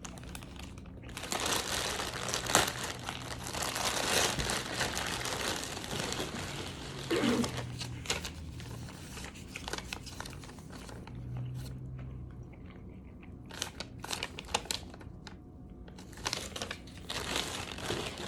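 Mail packaging crinkling and rustling as it is handled and opened, in stretches with a quieter spell of a few clicks in the second half.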